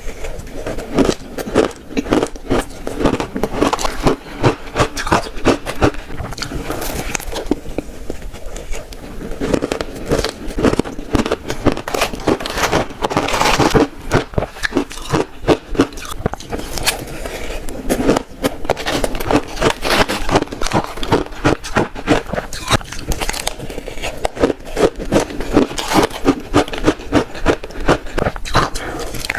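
Close-miked biting and chewing of shaved ice: rapid, irregular crunching and crackling of ice between the teeth, continuing with only brief pauses.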